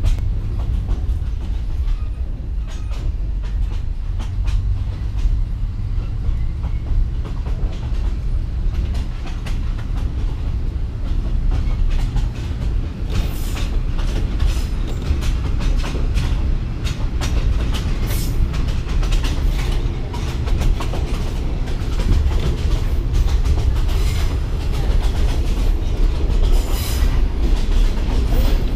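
Passenger train running on the rails: a steady low rumble with irregular clatter and knocks from the wheels and carriage, the clatter growing busier in the second half.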